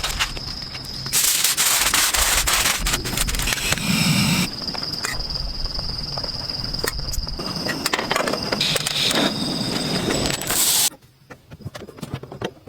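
Rain pattering on a camping shelter or car roof: many irregular drop clicks over a hiss, heavier for a few seconds early on. A steady high insect tone runs alongside, and the sound falls away abruptly near the end.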